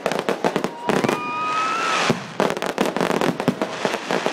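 Fireworks display: a dense string of sharp crackling bangs, with a rising whistle lasting about a second, starting about a second in.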